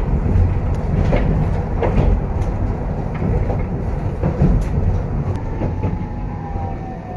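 Hankai Tramway streetcar running, heard from inside the car: a heavy low rumble with sharp wheel clacks. About five seconds in, a motor whine sets in and falls steadily in pitch.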